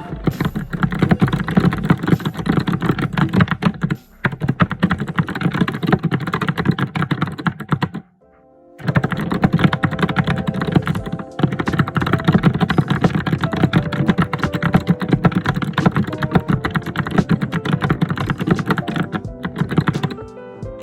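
Fast, continuous typing on a computer keyboard, a dense stream of keystroke clicks that is not gentle. The typing breaks off briefly about four seconds in and again for under a second around eight seconds in.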